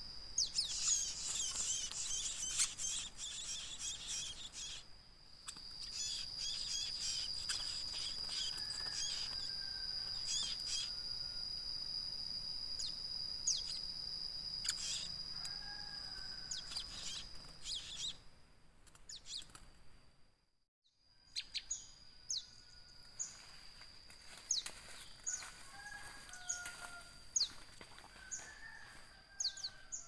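Small birds chirping in forest, many short sharp high chirps and a few lower whistled notes, over a steady high-pitched whine. The sound drops out briefly about two-thirds of the way through.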